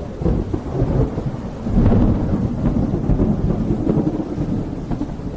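Rolling thunder rumbling continuously over steady rain, swelling louder about two seconds in.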